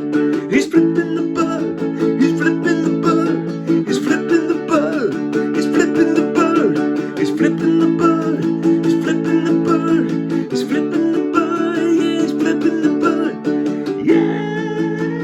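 Instrumental break of an acoustic song: a steady strummed plucked-string accompaniment with a picked lead melody above it. Near the end a new held, wavering note comes in over the chords.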